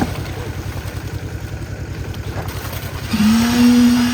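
Concrete mixer's engine running steadily with a fast, even low chugging. About three seconds in, a loud, drawn-out single-pitched call or hoot rises slightly, holds for about a second, then falls away.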